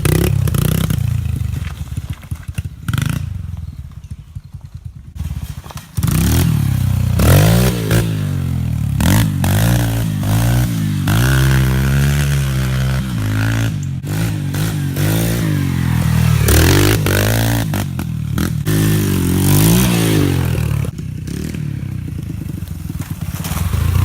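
Yamaha TT-R125 dirt bike's single-cylinder four-stroke engine revving up and down as it rides, the pitch rising and falling again and again. A quieter stretch of clattering and scraping comes in the first few seconds before the engine comes back loud about six seconds in.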